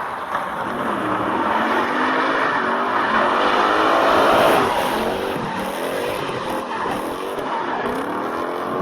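Toyota UZ-series V8 engine revving hard under load, its pitch climbing and dropping several times as the car is driven, over a loud rushing hiss that peaks about four seconds in.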